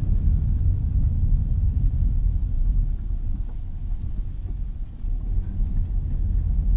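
Steady low rumble of a car driving, heard from inside the cabin, easing a little around the middle before building again.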